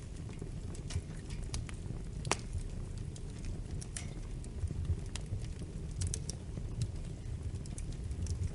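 Wood fire crackling in a fireplace: a steady low rumble of burning with irregular sharp pops and snaps, the sharpest about two seconds in and a quick cluster of them a little after six seconds.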